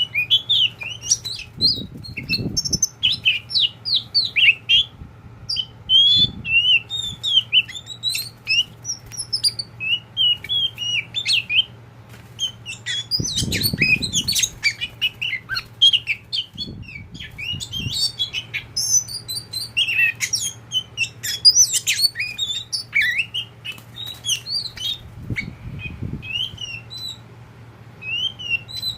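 Oriental magpie-robin singing a dense run of quick, varied chirps and whistled notes, with a few brief low fluttering rustles in between.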